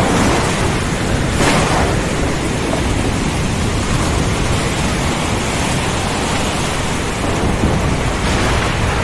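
Heavy thunderstorm: dense, steady rain and wind with a low rumble of thunder underneath, and a brief louder surge about a second and a half in.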